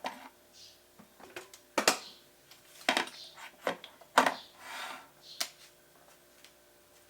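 Household objects being handled: a series of sharp knocks and clinks, about half a dozen, with a short rustle or hiss about five seconds in.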